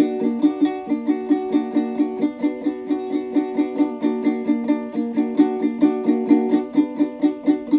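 Plucked string instrument, such as a ukulele or guitar, playing a fast, even run of repeated picked notes, several a second.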